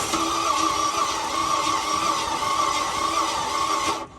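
Starter motor cranking a Ford BF Falcon XR6's 4.0-litre inline-six, which spins over freely and evenly without firing, like there's no compression at all; the owner believes the engine is cooked. The cranking stops abruptly near the end.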